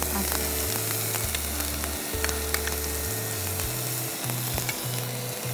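Onion frying in hot ghee with whole spices in a frying pan: a steady sizzle, stirred with a wooden spatula that clicks against the pan a few times.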